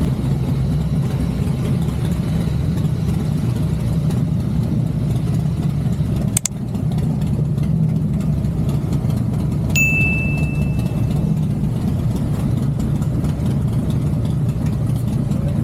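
Motorcycle engine running steadily while riding. There is a sharp click about six seconds in and a short high beep about ten seconds in.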